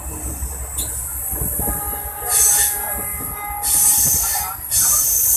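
Passenger train running on the rails, its wheels squealing in a steady high tone for about two seconds, with surges of hissing rail noise over a low rumble.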